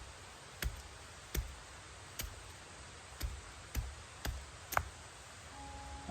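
A series of sharp knocks, about eight of them, spaced roughly half a second to a second apart, over a faint steady hiss; music fades in near the end.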